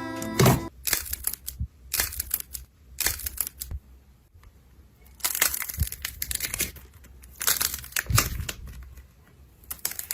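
Slime being squeezed and pressed by hand in irregular noisy bursts, with short pauses between them.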